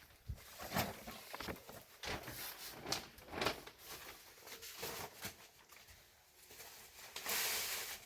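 Irregular clicks, knocks and crackles of objects being handled, with a louder rustle near the end.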